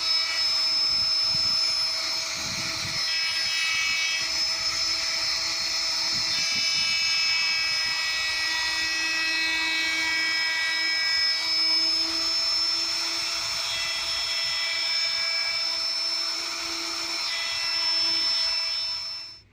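Electric power tool motor running steadily with a high whine, its pitch holding level for most of the time. It cuts off abruptly near the end.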